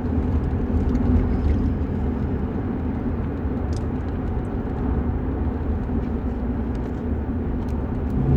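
A steady low rumble with no speech, like vehicle noise heard inside a car.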